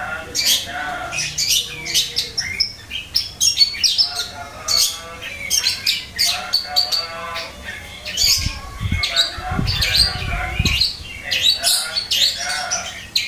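Long-tailed shrike (cendet) singing steadily in short, harsh, chattering phrases. Some low rumbling thumps come in between about eight and eleven seconds in.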